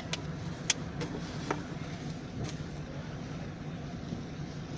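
Maruti 800 hatchback driving on a wet road in the rain: a steady low engine drone over the hiss of tyres and rain. A few sharp ticks cut through, the loudest a little under a second in.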